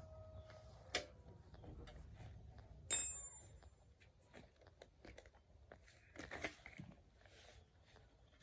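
Quiet scattered clicks and taps, with a sharp metallic clink about three seconds in that rings briefly.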